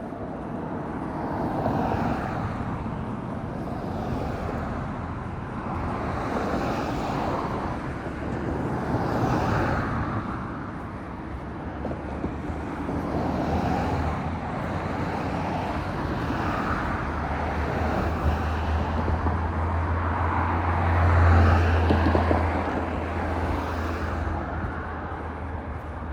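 Street traffic: cars passing one after another, each swelling and fading as it goes by. Over the last third a steady low engine hum builds in and peaks shortly before the end.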